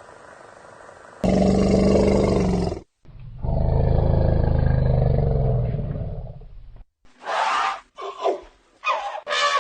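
A large animal calling with loud, drawn-out roar-like calls: one about a second and a half long, then a longer one of about three seconds, followed near the end by several shorter calls that slide up and down in pitch.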